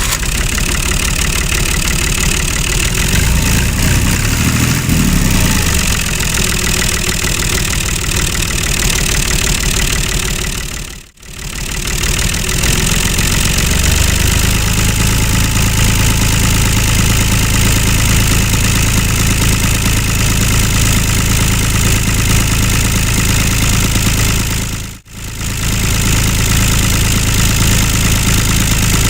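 Mini tractor engine running steadily, cut off twice by brief drops nearly to silence before it resumes.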